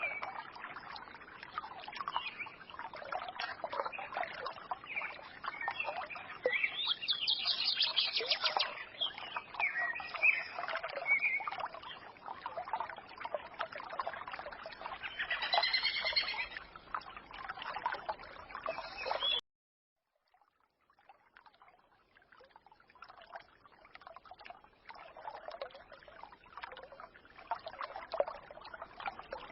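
Forest stream trickling with small birds chirping and twittering over it. About two-thirds of the way through the sound cuts off abruptly for about a second, then fades back in quieter.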